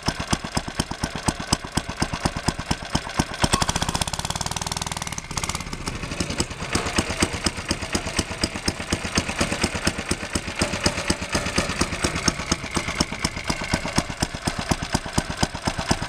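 Small petrol engine of a 5-inch gauge petrol-electric locomotive running with a steady beat of firing pulses. About four seconds in it runs smoother and faster for a second, then dips and settles back, with a higher whine in the middle stretch.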